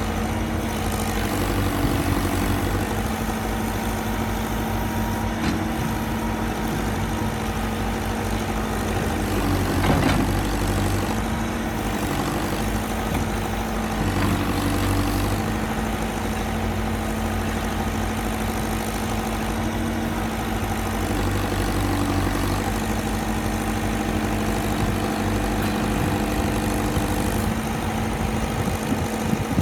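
JCB 3CX backhoe loader's diesel engine running at a steady idle, with a brief knock about ten seconds in.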